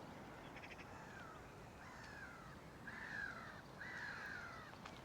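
A crow cawing four times in a row, each caw a short harsh call falling in pitch, the last two loudest.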